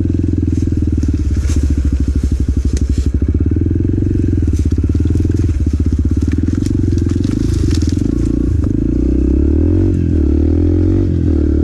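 Motorcycle engine running under way, its low, pulsing exhaust note rising and falling in pitch partway through, heard through a helmet-mounted microphone. Scattered short crackles sound over it.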